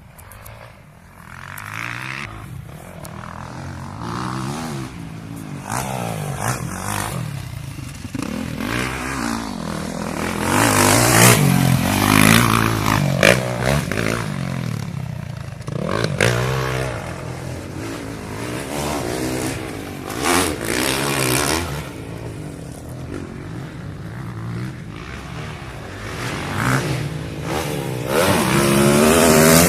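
Motocross bike engine revving up and down as it accelerates over a dirt track, the pitch rising and falling again and again. It is loudest about ten seconds in and near the end.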